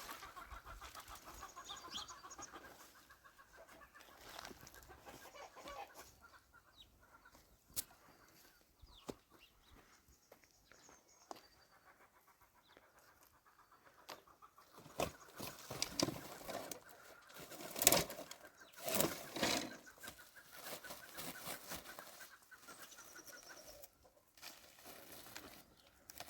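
Chickens clucking at the start, then several loud knocks and rustling in the second half.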